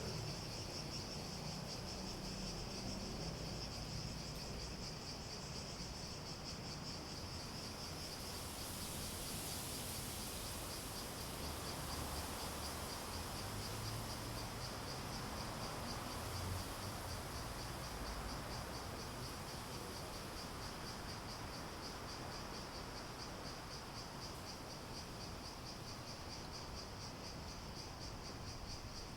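Cicadas singing in a steady chorus: an unbroken, rapidly pulsing high drone. A second, higher hissing chorus joins about eight seconds in.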